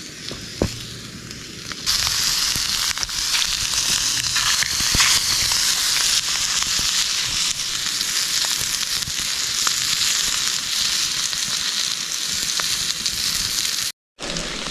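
Hamburg steak patties frying in a pan over a campfire: a steady, hissing sizzle with a few sharp crackles. The sizzle jumps much louder about two seconds in and breaks off for a moment near the end.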